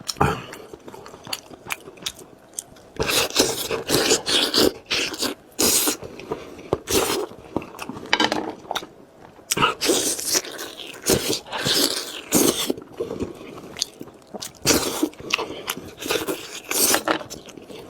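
Close-miked eating sounds: food being bitten and chewed in irregular crunchy, wet bursts, quieter in the first few seconds.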